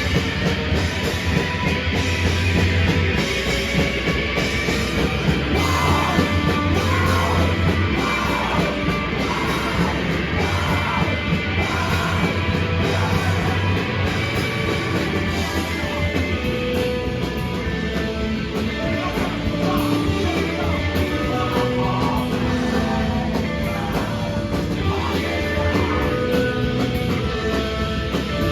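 Live rock band playing loud and continuous, with a steady driving beat and shouted vocals.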